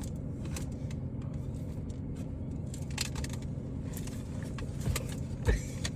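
Steady low hum of a car idling, heard from inside the cabin, with a few scattered clicks and knocks.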